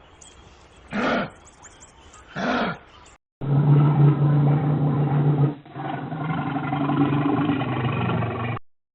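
Wild animal recordings: two short calls about a second and a half apart, then after a cut a long, steady, low-pitched growling roar with a brief break in the middle.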